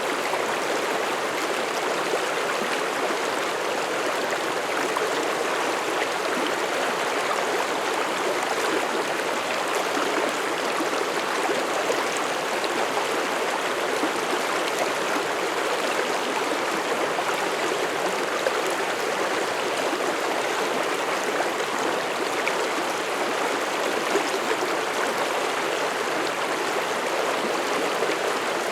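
Mountain stream rushing and burbling over rocks, a steady, even flow of water.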